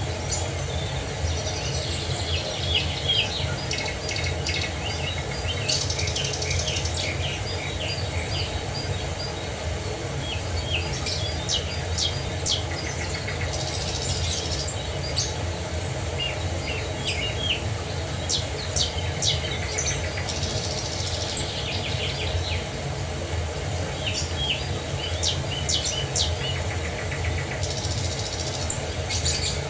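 Several songbirds chirping and singing, with short calls and quick trills repeated throughout, over a steady low rush of water.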